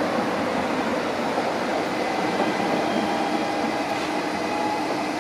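Rhaetian Railway trains running slowly through the station: a steady mechanical hum with a few faint steady whining tones over it.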